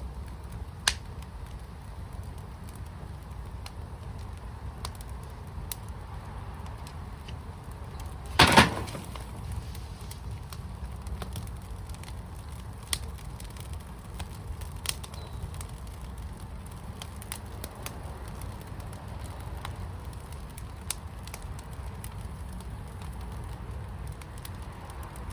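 Wood fire burning in a fire pit: scattered crackles and pops over a steady low rumble, with one much louder crackling pop about eight seconds in.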